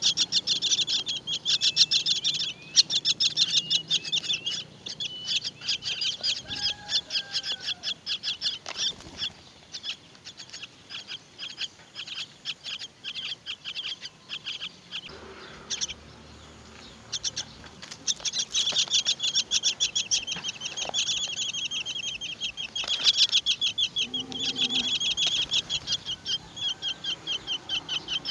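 Myna nestlings begging: fast runs of high, rasping chirps, many a second, which thin out midway and then pick up strongly again.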